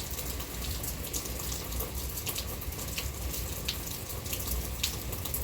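Rain falling steadily, with scattered sharp drips landing close by.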